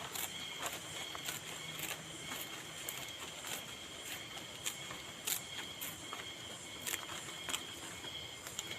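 Steady high-pitched insect chirring, with scattered sharp clicks and taps every half second or so.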